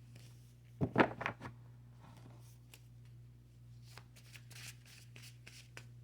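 Tarot cards being shuffled and handled: a quick run of sharp card clicks about a second in, then softer, scattered clicks.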